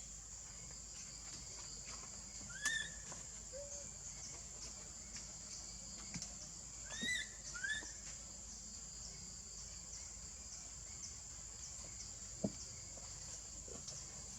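Steady high-pitched insect drone with a few short, rising chirp calls: one about two and a half seconds in and a quick cluster of three around seven seconds. A single soft knock comes near the end.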